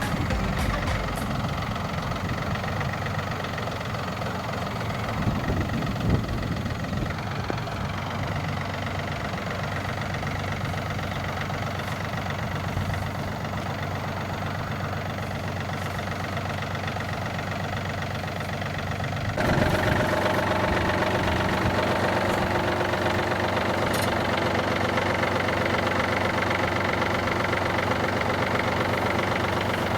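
Tractor engine running steadily, then getting louder and busier about two-thirds of the way through.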